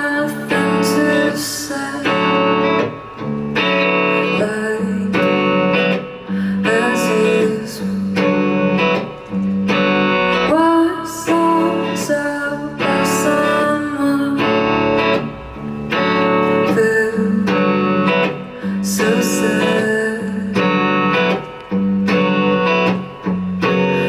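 Live indie band music, led by guitar chords struck in a steady rhythm over a sustained low bass line.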